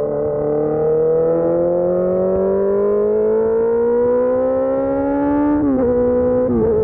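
Suzuki GSX-R600 K4 inline-four through an SC-Project S1 race exhaust, accelerating: the engine note climbs steadily for about five seconds, then drops sharply twice near the end as it shifts up through two gears.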